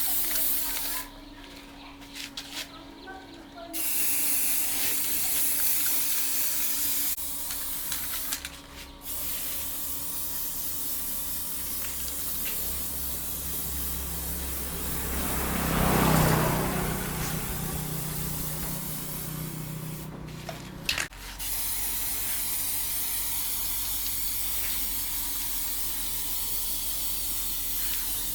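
A blower pushing out air with a steady hiss. It cuts out briefly three times, and a low hum swells up for a moment about halfway through.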